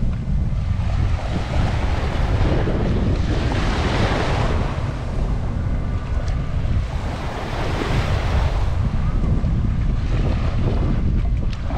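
Surf washing onto the beach in swells a few seconds apart, under heavy wind buffeting the microphone with a constant low rumble.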